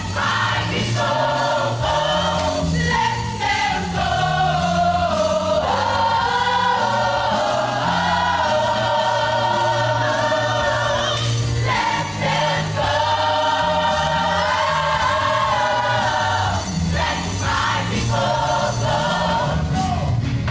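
Sacred choral music: several voices singing together over sustained low accompaniment notes.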